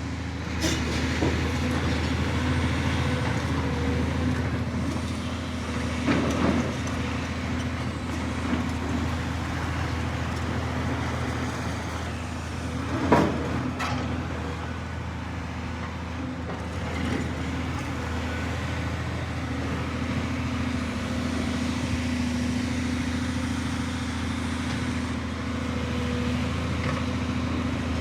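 Steady low rumble of a running vehicle, with a few brief knocks, the loudest about halfway through.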